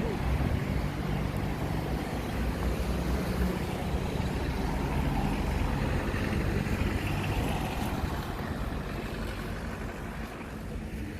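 Metro Express light-rail tram running, a steady rumble and drone with a low hum from its drive; the noise eases off near the end.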